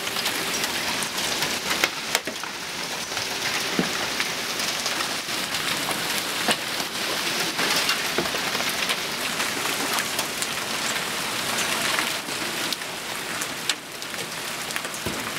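Large hail falling heavily, a dense steady clatter of hailstones hitting the ground and other surfaces, with sharper single strikes standing out every second or two.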